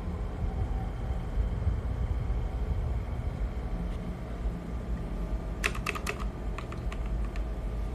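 Typing on a ZIYOU K3 full-size mechanical keyboard with red switches. A quick run of key clicks comes about six seconds in, over a steady low rumble.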